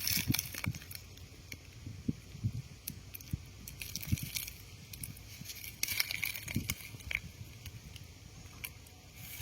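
Irregular close-up rustling and crackling, with scattered sharp clicks and a few soft low thumps.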